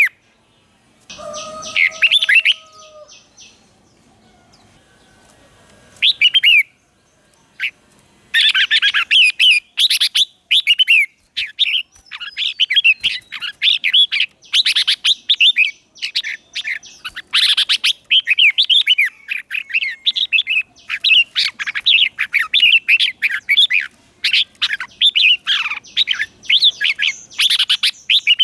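Red-whiskered bulbul singing: a few short phrases in the first seconds, then from about eight seconds in a fast, near-continuous run of chattering, warbling notes. Around one to three seconds in there is also a brief steady tone, lower than the song.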